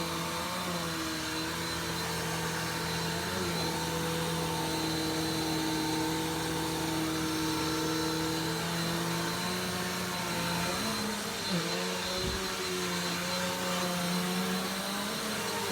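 Vacuum cleaner running steadily, its motor hum dipping in pitch briefly a few times. A short low knock comes about twelve seconds in.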